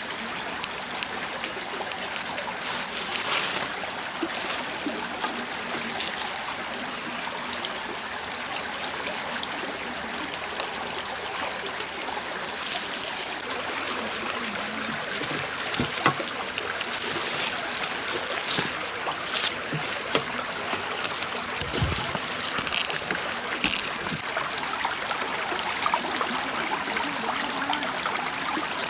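Stream water trickling and flowing steadily, with a few brief louder bursts of noise and scattered small knocks.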